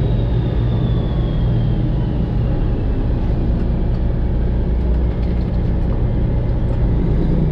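Semi truck's Detroit Diesel 12.7-litre engine running steadily as the truck drives slowly, heard inside the cab, with a faint high whine that slowly falls in pitch over the first few seconds.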